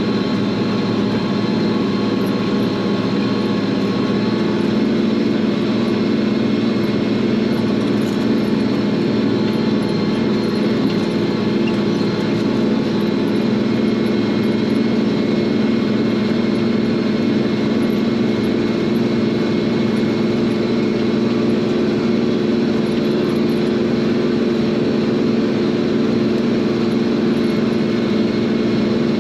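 Farm tractor's diesel engine running steadily under load while pulling a field cultivator, holding an even pitch throughout.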